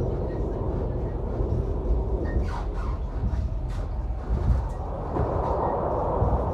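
Regional train running, a steady low rumble with faint higher noises.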